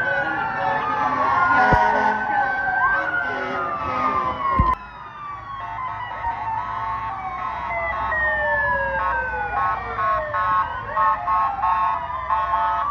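Several emergency-vehicle sirens wailing at once, their pitches sweeping up and down and overlapping. The sound cuts off abruptly about four and a half seconds in and picks up again at once with more sirens. Near the end they break into choppy, repeated short tones.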